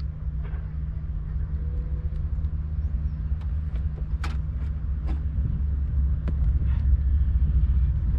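Boat motor running steadily with a low, even hum, with a few light clicks over it.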